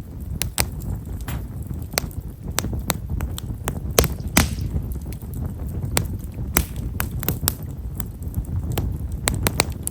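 Himeshara (Japanese stewartia) firewood burning in an open fire, giving fine, light crackling: frequent small, sharp, irregular pops over a low steady rumble, with a short hiss about four seconds in.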